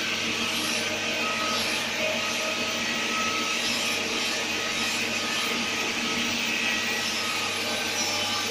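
Steady whirring machine noise with a constant low hum and faint steady whine tones, unchanging throughout.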